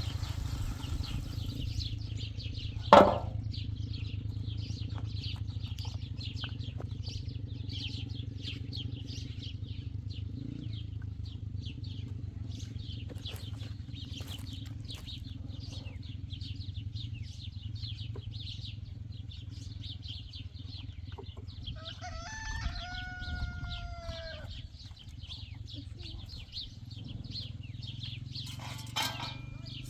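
Small birds chirping continuously over a steady low hum, with one loud sharp knock about three seconds in. Near the end a rooster crows once, a drawn-out call of about two and a half seconds.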